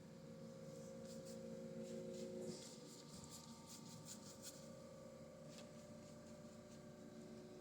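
Faint brush strokes of acrylic paint being worked onto canvas, a soft scratchy rubbing that comes and goes, over a steady low hum.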